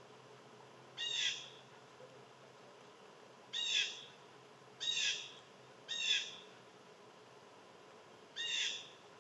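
A bird calling five times, each call about half a second long, at uneven intervals of one to two and a half seconds.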